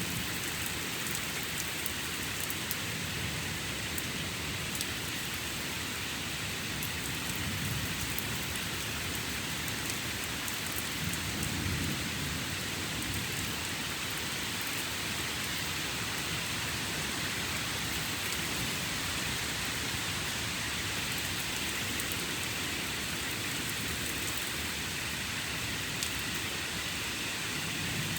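Steady rain falling during a thunderstorm, with sharp ticks of drops landing close by. A low rumble of distant thunder swells and fades around the middle.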